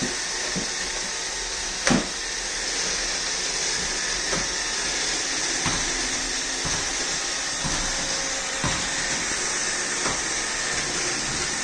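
iRobot Roomba 614 robot vacuum running with a steady whirring hiss, with a few short knocks, the loudest about two seconds in.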